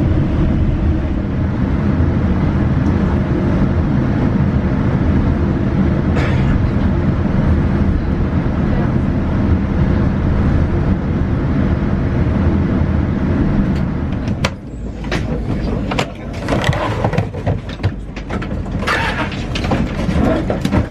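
Steady low rumble inside a moving vehicle, which cuts off abruptly about fourteen seconds in. It gives way to quieter interior sound with scattered clicks and clatter and some voices.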